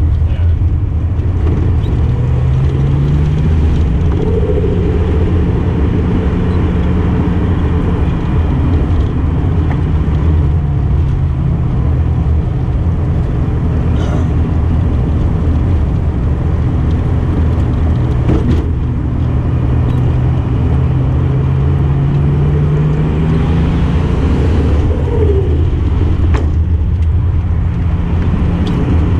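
Datsun 240Z engine running under way, heard from inside the car over road rumble, its pitch rising and falling several times as the car drives through the bends.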